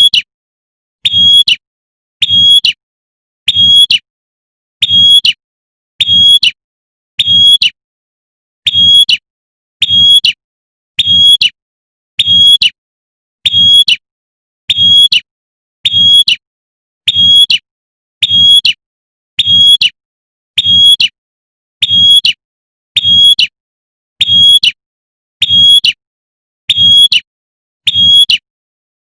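Female prinia (prenjak) giving its sharp 'tembakan' call over and over, one short call about every 1.2 seconds with a low thud under each. A lure call meant to draw in a male.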